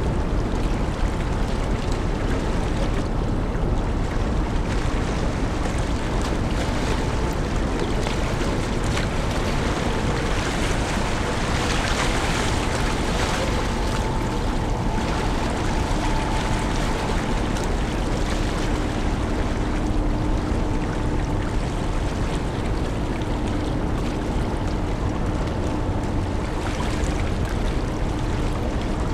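Steady rush of wind and sea water around a large car ferry coming into port, with a faint steady machinery hum under it. The hiss swells a little in the middle.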